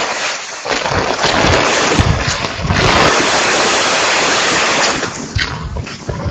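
Typhoon wind and rain on a phone microphone: a loud rushing hiss that swells and drops with the gusts, with low rumbling buffets from wind striking the mic.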